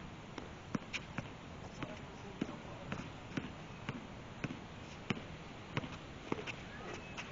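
Basketball being dribbled on a hard court, bouncing about twice a second in a steady run of sharp thuds.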